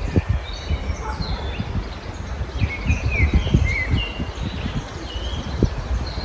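Several small birds chirping and singing in short, quick notes, some sliding in pitch, over an uneven low rumble with soft thuds.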